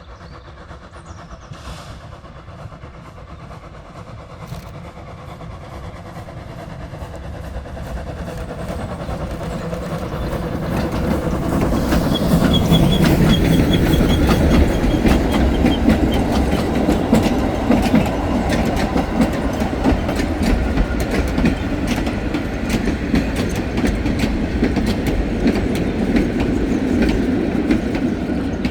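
A heritage train approaching, growing steadily louder over about ten seconds, then running close by with a rapid clickety-clack of wheels over the rail joints.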